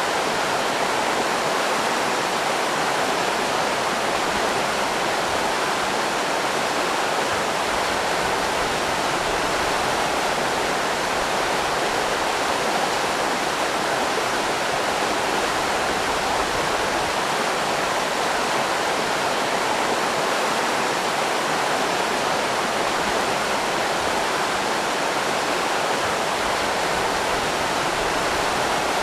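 River rapids rushing: a steady, even roar of moving water.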